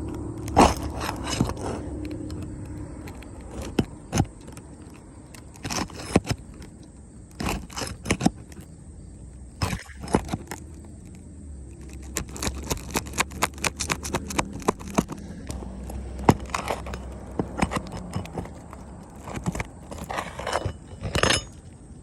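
Irregular sharp knocks, clicks and scrapes coming in clusters, typical of work on a roof, over a low steady rumble.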